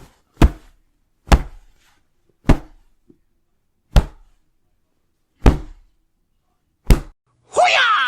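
Karate hit sound effects: six sharp whacks, each with a short low thud, spaced about a second or a second and a half apart. Near the end a loud yell with gliding pitch comes in.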